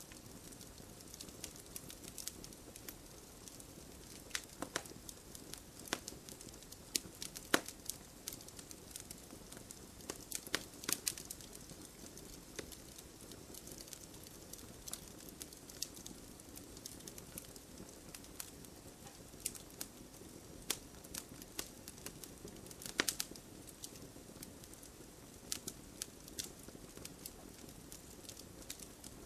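Wood campfire burning steadily, with irregular sharp crackles and pops from the burning logs over a soft low hiss, busier in a few clusters.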